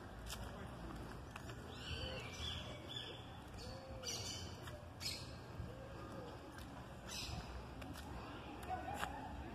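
Birds chirping in short curved calls, over a steady low rumble.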